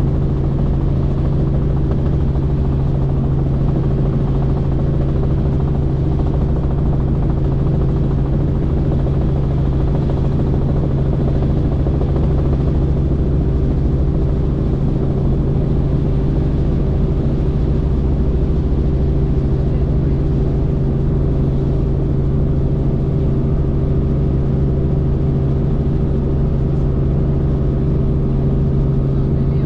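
Helicopter in flight: steady drone of the rotor and engine, with a constant low hum and no change in pitch or level.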